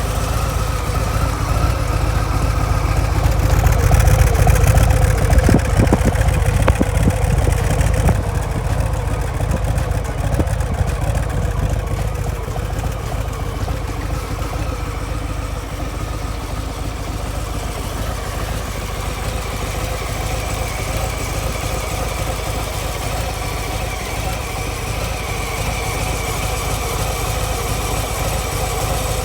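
Harley-Davidson Breakout's Milwaukee-Eight 114 V-twin idling through its stock mufflers, louder for a few seconds near the start before settling to a steady idle.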